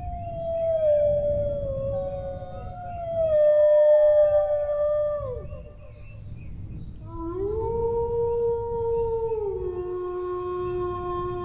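Dogs howling in long, drawn-out notes. One howl slides slowly downward and breaks off about five seconds in, with a second, higher howl overlapping it. After a short gap another howl rises, holds, then drops to a lower note near the end. A low rumble of background noise lies underneath.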